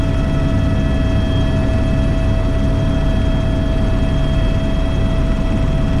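Steady in-flight noise of an AS355 Twin Squirrel twin-turbine helicopter climbing in a left turn: a constant drone of rotor and turbines with steady whining tones over it.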